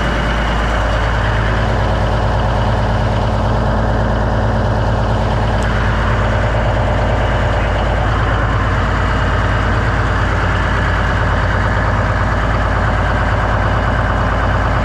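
1989 Kenworth K100E cabover's diesel engine idling steadily.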